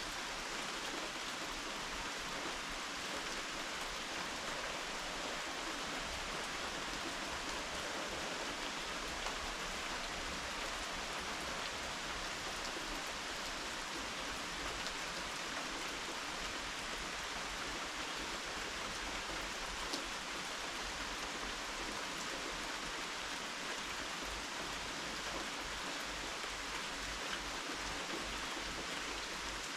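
Steady rain falling, with a few single drops standing out as brief clicks.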